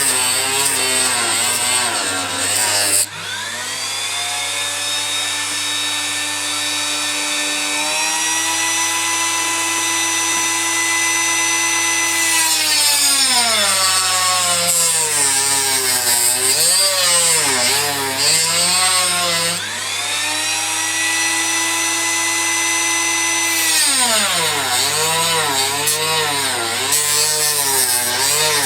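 Small electric rotary tool cutting across copper-clad strips to make gaps that isolate the two rails and prevent a short. Its motor pitch dips and recovers about once a second as the cut bites, and twice it runs free at a steady higher pitch for several seconds.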